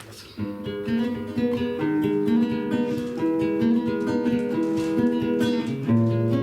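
Acoustic guitar playing a fingerpicked introduction, with plucked notes and chords, starting about half a second in.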